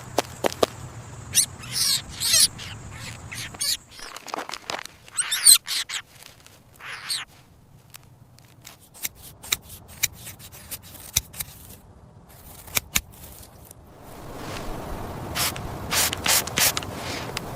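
Squirrels squeaking: a few short, high, wavering squeaks among scattered sharp clicks and rustling, with more rustling and clicks near the end.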